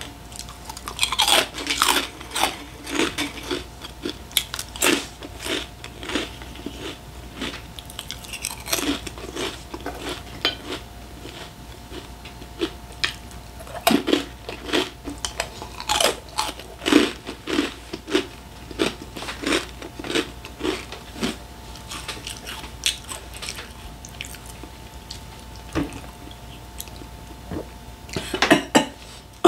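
Close-miked chewing of crunchy snacks: a long run of crisp crunches and bites, a few every second, over a faint steady hum.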